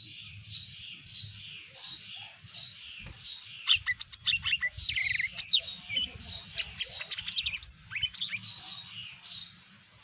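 Cucak ijo mini (small leafbird) singing: a steady run of chirps about twice a second, broken in the middle by a louder burst of fast, varied notes and sharp rising whistles, after which the chirping resumes and fades near the end.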